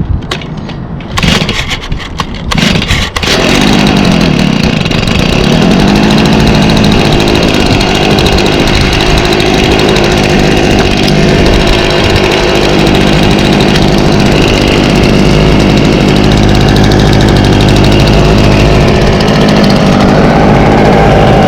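Stihl BG55 handheld leaf blower's 27cc two-stroke engine being pull-started: a few short pops, then it catches about three seconds in and runs steadily with the blower's air rush.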